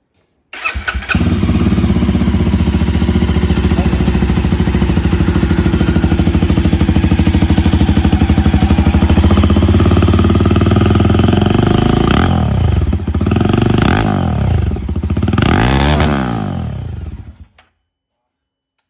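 Single-cylinder motorcycle engine with an aftermarket-style exhaust starting up, idling with an even pulsing beat, then revved three times in quick blips before being switched off.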